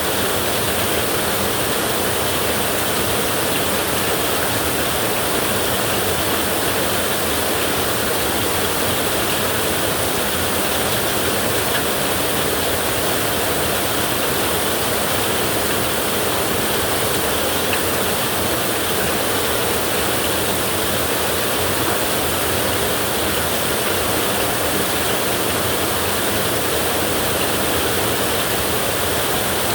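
Heavy rain on a tin roof, a dense, even hiss that holds steady throughout, with no thunder.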